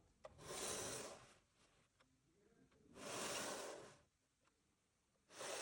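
Packaging being handled during an unboxing: three soft swishing rustles, each about a second long, with faint clicks between them.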